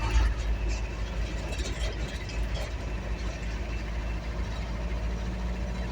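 Steady low engine rumble of a vehicle being driven, heard from inside the cab.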